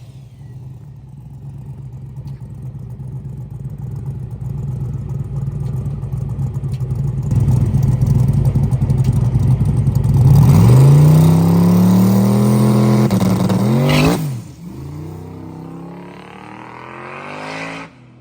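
Drag car's engine under full acceleration on a pass. The engine noise builds for about ten seconds, then climbs steeply in pitch and sweeps past about fourteen seconds in. After that it falls away quieter, and the sound stops abruptly near the end.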